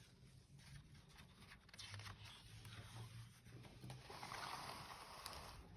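Faint rustle and soft clicks of a picture book's page being turned and handled, a little louder near the end.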